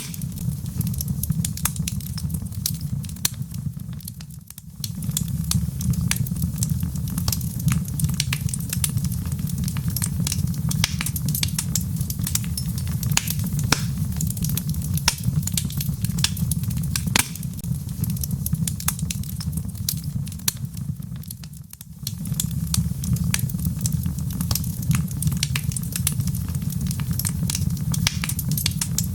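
Wood fire crackling in a fireplace: dense, irregular sharp pops and snaps over a steady low rumble of the flames. The low rumble briefly fades out twice.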